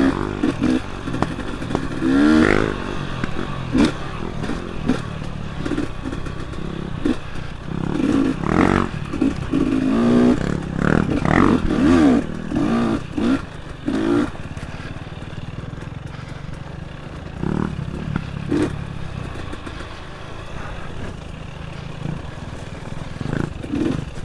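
Dirt bike engine under way, revving up and dropping back over and over, with clattering knocks from the bike. It settles to steadier, quieter running over roughly the last ten seconds.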